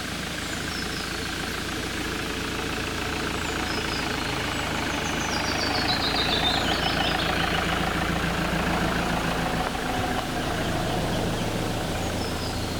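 A campervan's engine runs steadily with a low hum. About halfway through, a bird sings a short descending trill over it.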